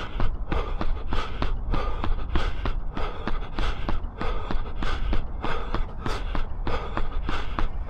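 A runner's footfalls, about three strides a second in a steady rhythm, with hard breathing under them. This is threshold-pace running.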